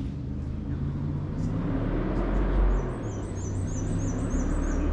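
A competition car's engine running at a distance, with a swell that peaks about halfway through. Over the second half a small bird sings a repeated high phrase, about three times a second.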